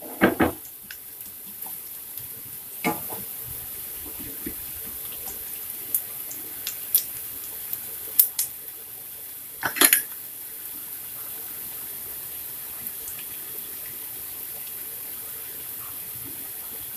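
Chopped onions, dried red chillies and curry leaves frying in oil in a non-stick pan, a steady sizzle while the onions cook towards golden brown. A spatula knocks and scrapes against the pan a few times, loudest near the start and about ten seconds in.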